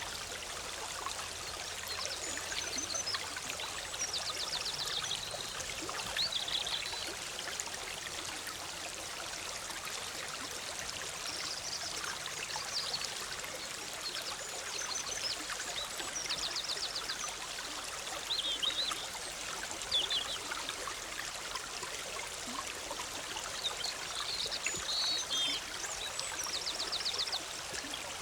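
Forest stream bubbling and trickling steadily over rocks, with songbirds repeatedly giving short high-pitched chirps and brief trills.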